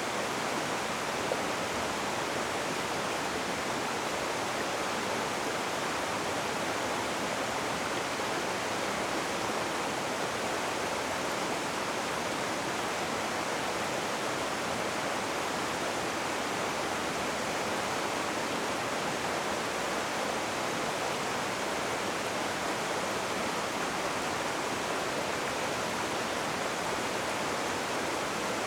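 Rushing river water: a steady, even rush with no distinct splashes.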